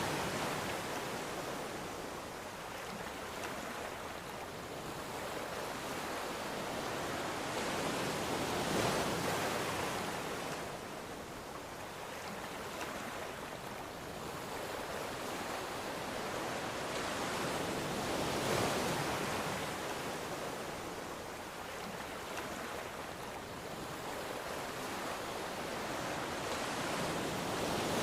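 Ocean surf: waves rolling in and washing out, each swell rising and falling again about every nine seconds.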